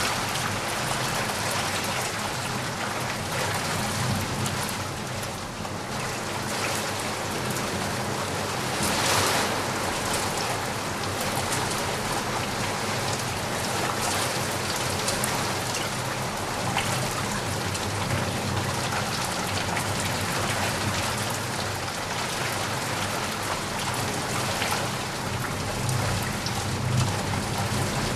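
Steady rain falling hard on surfaces, with a brief louder gust of rain about a third of the way in and a low rumble near the end.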